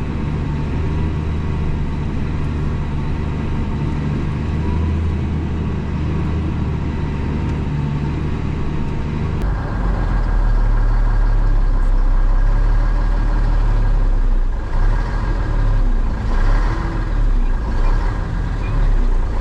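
Truck's diesel engine running steadily under load. About halfway through, its note drops lower and grows louder.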